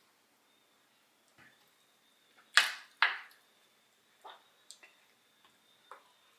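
Close-miked eating sounds of a sandwich: two loud sharp bites about half a second apart, a little over two and a half seconds in, among scattered soft mouth clicks.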